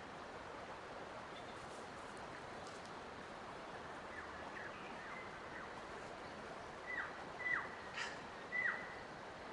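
A bird calling over a steady outdoor hiss. Faint short notes that fall quickly in pitch begin about halfway through, followed by four louder downward-sweeping calls near the end.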